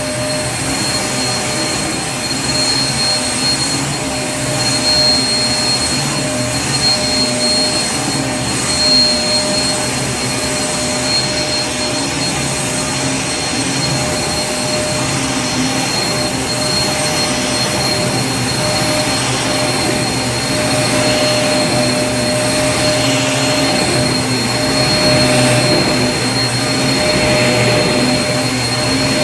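Vacuum cleaner running continuously: a steady rushing motor noise with a constant high whine and a hum underneath.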